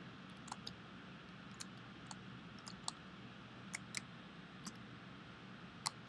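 Faint, scattered clicks of a computer mouse and keyboard, about a dozen at irregular intervals, over a steady low room hum.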